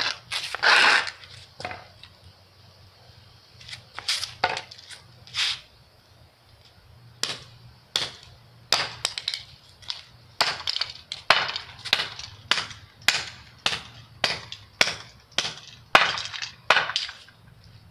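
Hockey stick repeatedly whacking a toy race car, a sharp crack with each blow. The blows are spaced out at first, then come steadily at about two a second.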